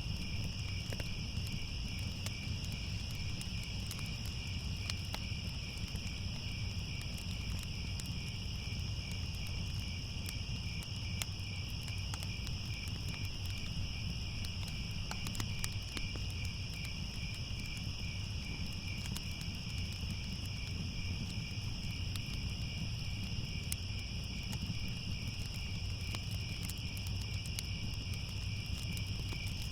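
Crickets chirping in a continuous, steady chorus, with scattered faint crackles from a fire and a low steady rumble underneath.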